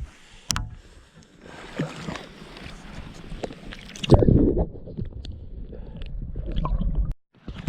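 Water sloshing and splashing with handling knocks as a small brown trout is dealt with at the water's edge; the loudest splash comes about four seconds in. The sound cuts off abruptly near the end.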